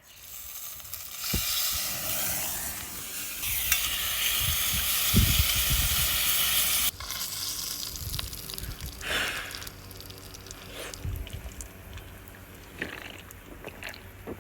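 Horumon (offal) sizzling over a campfire: a loud, steady hiss that cuts off suddenly about seven seconds in, followed by quieter sizzling with scattered pops and crackles.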